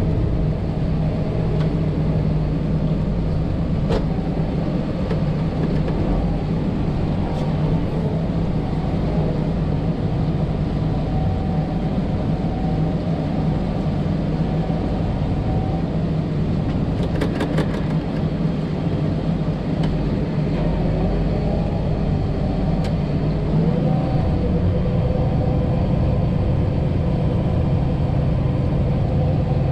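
Combine harvester running steadily in the corn field, a continuous low engine and machinery drone with a few light clicks and ticks. About three-quarters of the way through it grows slightly louder and a higher tone climbs a little in pitch.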